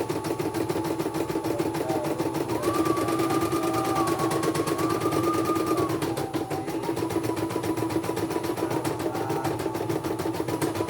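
Computerised embroidery machine stitching: a fast, even needle chatter over a steady hum, with a motor whine that rises in pitch about two and a half seconds in and drops back about six seconds in.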